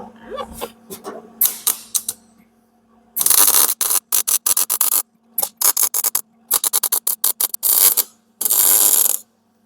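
Welder arc crackling across a sheet-steel seam, in a string of short bursts and a few longer runs after a couple of seconds of light clicks, with the welder's power turned up high. A steady hum runs underneath.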